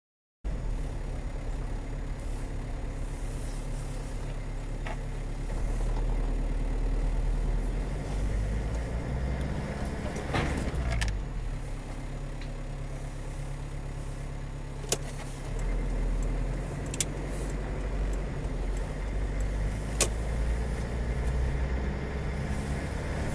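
Car engine and road noise, a steady low rumble with a brief sweep up and down in pitch about ten seconds in. Three sharp clicks come in the second half.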